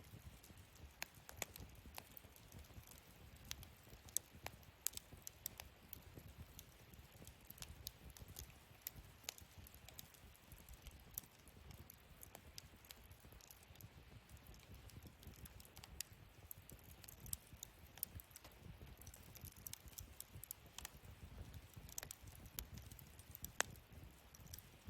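Wood fire burning in a fire pit, with irregular small crackles and pops over a soft low rush of flame.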